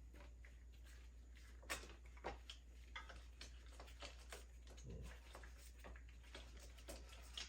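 Irregular light clicks, ticks and small knocks of bicycle parts and hand tools being handled, with a few louder clicks, over a steady low hum.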